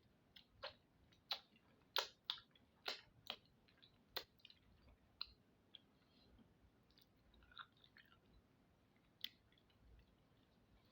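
A person chewing and smacking their lips while eating, with a quick run of sharp wet clicks in the first few seconds, then only a few scattered ones.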